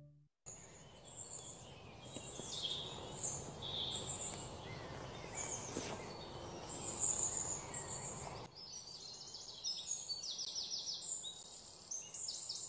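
Small birds chirping and twittering over a steady outdoor background hiss, with a quick run of repeated chirps in the last few seconds.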